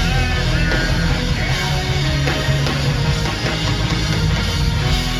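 Live punk rock band playing loud, with electric guitars and no singing.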